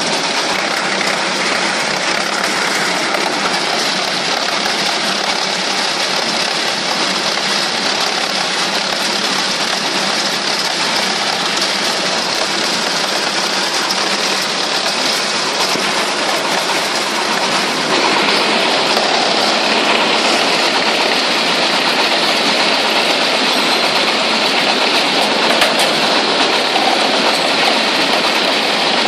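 Wood chipper running with a steady, loud mechanical noise, which grows slightly louder about eighteen seconds in.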